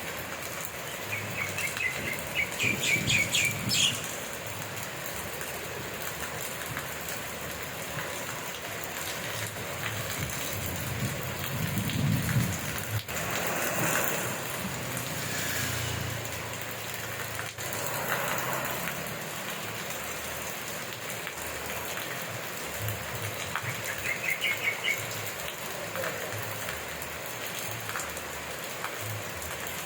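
Steady rain falling, with a bird calling twice in a rapid run of high chirps, once near the start and again late on. A brief low rumble comes about midway.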